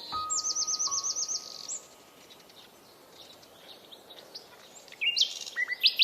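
Small birds singing: a fast trill of about ten high chirps near the start, a quieter middle stretch, then loud repeated chirps again near the end. Faint, long, steady tones sit under the song.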